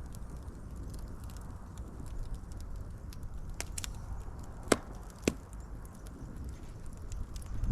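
Wood fire burning with a low steady rumble and scattered sharp crackles and pops, the two loudest about halfway through.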